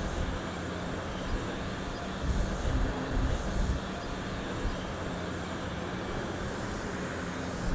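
Steady engine rumble with a low hum, swelling briefly a few times between about two and four seconds in.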